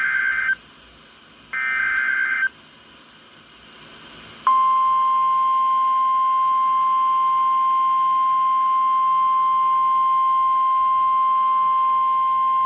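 NOAA Weather Radio alert: the end of one SAME digital header burst and then another one-second burst of warbling data, and about four and a half seconds in, the steady 1050 Hz warning alarm tone starts and holds. Together they signal an incoming warning, here a severe thunderstorm warning.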